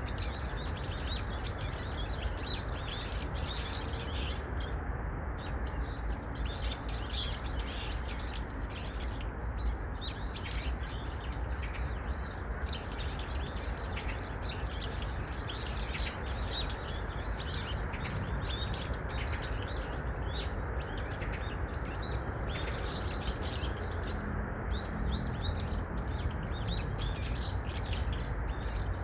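Songbirds chirping and twittering busily, with many short high calls overlapping one another, over a steady low background noise.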